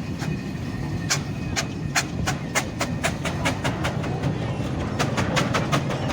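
Steam traction engine exhaust beats: a run of sharp chuffs that quicken to about four or five a second, over a steady low rumble.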